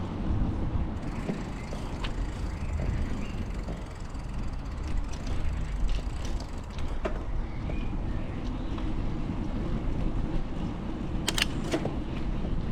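Road traffic and a steady low rumble heard from a moving bicycle. There are scattered faint ticks, and two sharp clicks close together about eleven seconds in.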